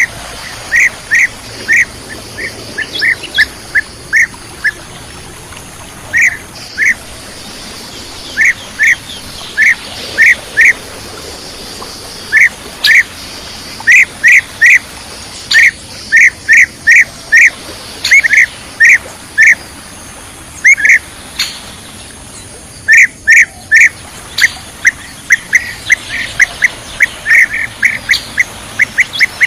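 Bee-eater calls: short, clipped chirps in quick runs of two to five, repeated again and again with brief pauses between runs.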